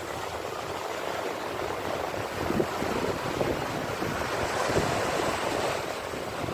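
Sea waves washing in steadily, with wind buffeting the microphone in short low thumps.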